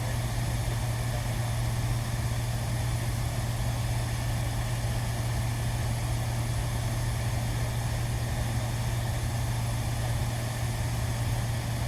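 Steady, unchanging low machine hum with a constant noisy wash above it.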